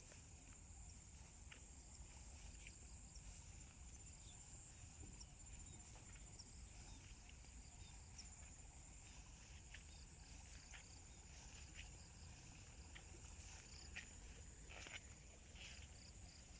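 Faint, steady high-pitched trilling of insects in the countryside, with a few soft taps scattered through it.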